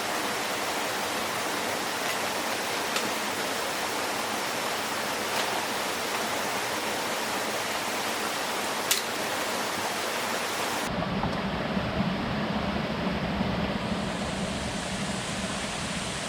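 Steady rushing noise of water, rain or running water, with a few sharp taps like drips. About eleven seconds in the sound changes abruptly to a duller noise with a low hum underneath.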